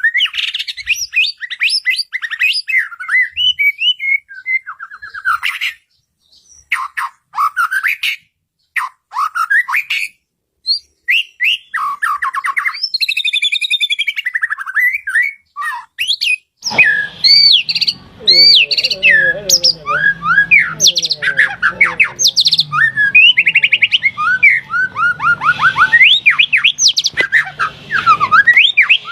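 White-rumped shama (murai batu) singing loud, varied phrases of rich whistles and rapid trills, with short pauses between phrases at first. A little over halfway in, the song turns continuous and denser, with overlapping phrases, some lower notes and a steady low hum underneath.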